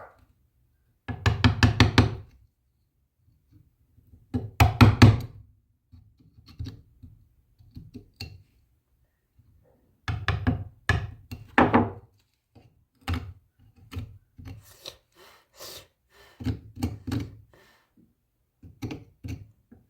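Clusters of quick, sharp knocks on wood, several strokes at a time, with short quiet pauses between the groups.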